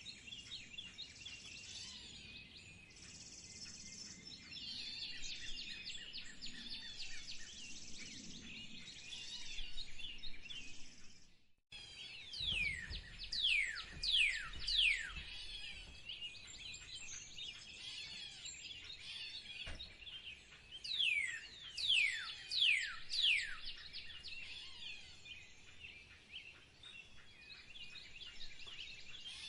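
Several songbirds chirping together in a dense chorus. After a brief break, one bird gives a series of loud, quick downward-sliding whistles in two runs of about four calls each.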